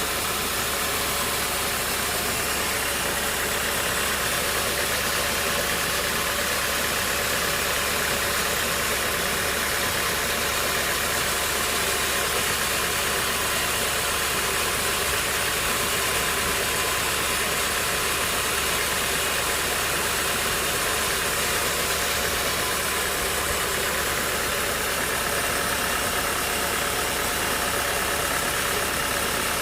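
Sawmill machinery running steadily: an engine-driven hum with a constant hiss and whine that never changes in level.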